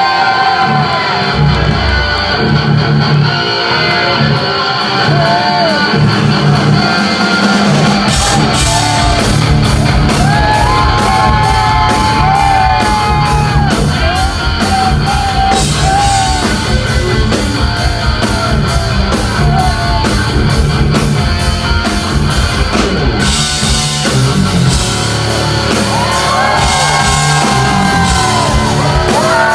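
A live metal band recorded from the crowd in a club: electric guitar plays lead lines with string bends over bass and drums. The drums and cymbals come in hard and fast about eight seconds in.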